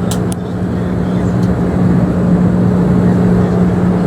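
Steady drone of a private jet heard inside the cabin, a constant low hum with an even rush of noise over it. Two short clicks sound right at the start.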